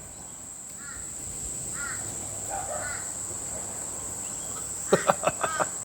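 Laughing kookaburra breaking into a call near the end: a quick run of five or six short, harsh notes, after a few faint short chirps earlier on.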